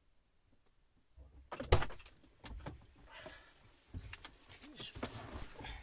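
Handling noises: a string of sharp knocks and clicks with some rustling, starting after about a second of silence, the loudest knock coming early in the sequence.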